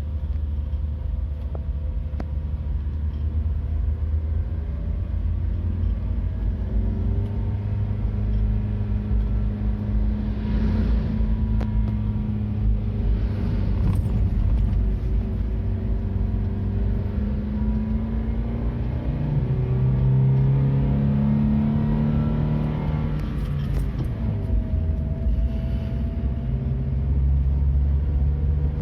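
Truck engine running under load with a heavy low rumble, its pitch rising and falling several times as it works along a rough, potholed road.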